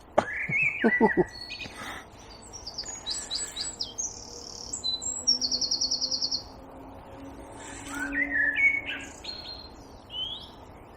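Songbirds calling and singing at dusk: a string of short high chirps and whistles, with a fast, even trill lasting about a second roughly midway.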